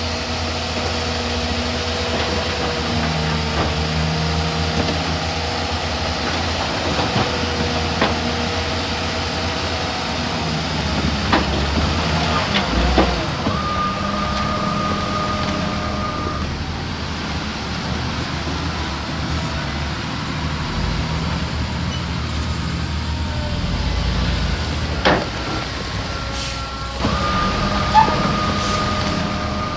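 Heavy diesel engines of a bulldozer and a dump truck working steadily, with a few sharp metallic clanks. A steady high tone comes in twice, each time for about three seconds, once in the middle and once near the end.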